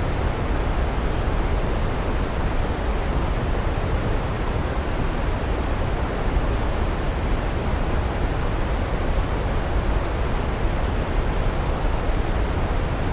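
Waterfall rushing steadily, an even roar of falling water without change.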